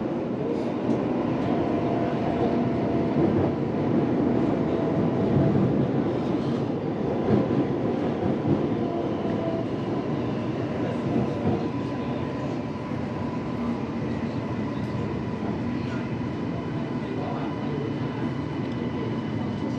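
CRRC Puzhen Type B metro train running along the line: a steady rumble of wheels on rail with a thin, steady whine on top, easing off slightly about two-thirds of the way through.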